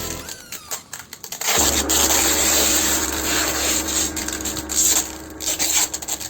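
A motor-driven machine starting up about one and a half seconds in and running steadily for a few seconds with a rasping, sanding-like noise over a low hum, then winding down into scattered rubbing and clicks.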